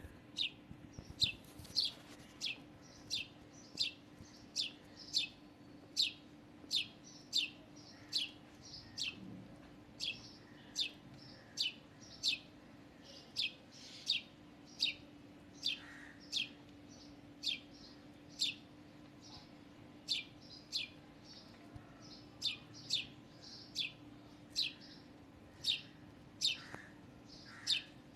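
A small bird chirping over and over: single short, high cheeps, each falling slightly in pitch, at about one and a half a second, with a faint steady low hum beneath.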